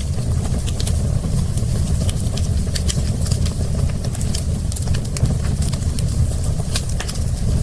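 Fireplace fire crackling: a steady low rumble of flames with irregular sharp pops and snaps.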